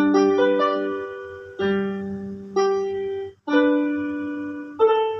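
Piano chords played in an instrumental break of a slow song, five struck chords, each left to ring and fade before the next.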